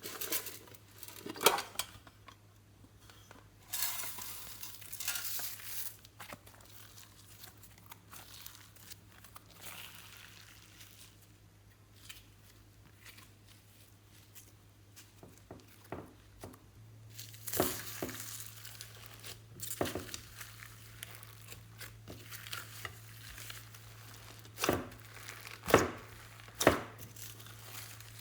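Plastic crinkling and rustling as it is handled, in irregular bursts with scattered sharp taps and clicks, over a faint steady low hum.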